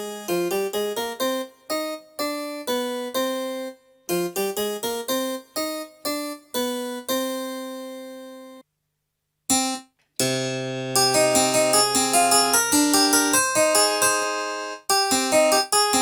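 Casio AiX keyboard playing an acoustic piano tone: a phrase of single notes that die away, a short pause, then a fuller passage with chords over a held bass note from about ten seconds in.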